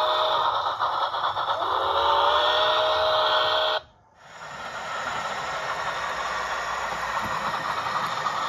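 Steam-locomotive whistle from a model train's DCC sound decoder speaker: a chord-like whistle that stops about half a second in, then a second longer blast. It cuts off just before the halfway point, and after a brief gap a steady steam hiss builds up.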